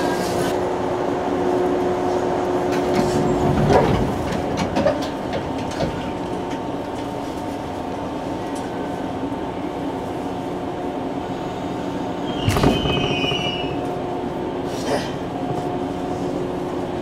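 Inside a JNR-type 113-series electric train car setting off from the platform. The car gives a steady hum with a few clunks, and a short squeal comes about twelve seconds in.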